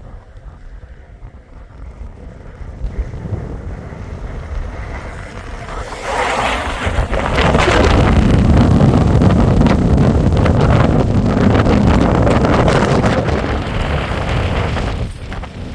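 Wind buffeting the microphone, gusting up about six seconds in and staying loud, then easing near the end.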